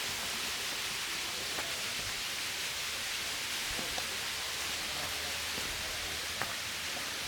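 Steady hiss of running water from a mountain spring's stream, with one faint click a little after six seconds.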